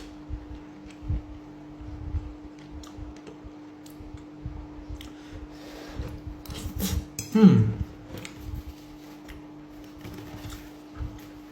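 Cutlery clinking and scraping on a plate while eating risotto, in scattered short clicks over a steady low hum. About seven and a half seconds in there is one louder sound that slides down in pitch.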